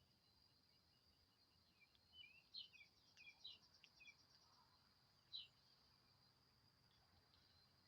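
Faint bird chirps: a quick run of short calls between about two and four seconds in and one more a little after five seconds, over a steady high insect drone.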